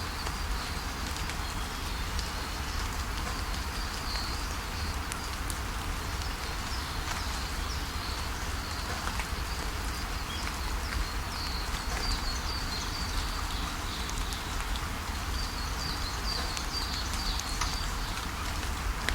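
Steady rain falling, with scattered drips ticking. Birds chirp high and thin over it, more busily a few seconds in and again near the end.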